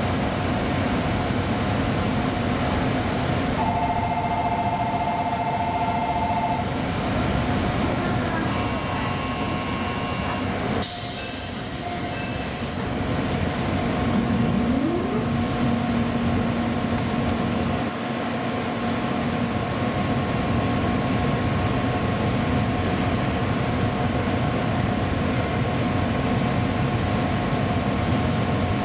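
A JR Central 211 series train stands at the platform with a steady hum and whine from its equipment, while the platform's departure bell rings for about three seconds from about four seconds in. The conductor's boarding-complete buzzer sounds about eight seconds in, followed by the doors closing with a short hiss of air about three seconds later.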